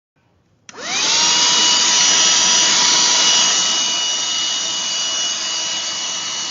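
Black+Decker Dustbuster cordless handheld vacuum switched on under a second in: its motor spins up with a quickly rising whine, then runs steadily with a high whine over a loud rush of air.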